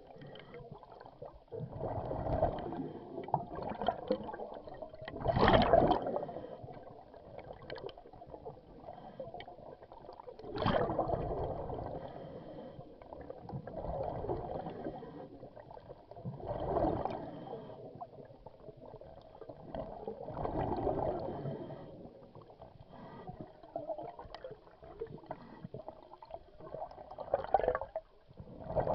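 Scuba regulator breathing underwater: a diver's exhaled bubbles gurgling out in a swell every three to five seconds, about eight breaths, with quieter inhalations between.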